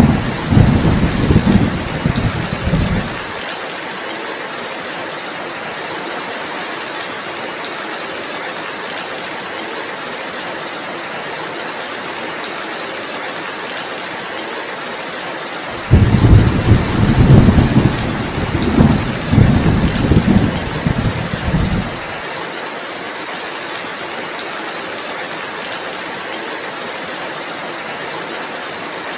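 Heavy rain falling steadily, with two low rolls of thunder: one at the start lasting about three seconds, and a louder one starting about 16 s in and lasting about six seconds, each cutting off abruptly.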